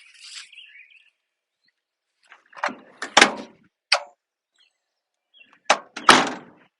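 Mini truck cab door worked by hand: a latch click and heavy clunk about two and a half seconds in, another sharp click a second later, then a click and a loud slam near the end. Faint bird chirps in the first second.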